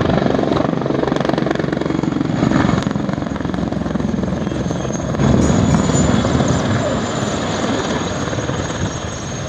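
Mil Mi-24 attack helicopter flying past, its main rotor beating in a dense, fast chop with a thin high turbine whine above it; the sound swells louder about five seconds in.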